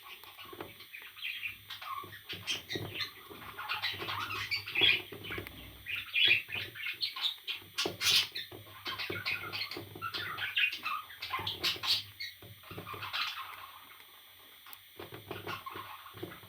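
Parrot chirping in short, irregular calls mixed with clicks, busiest in the middle and thinning out near the end.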